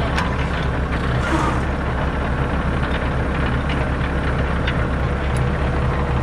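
A vehicle engine running steadily with a low, even drone, and a few faint clicks over it.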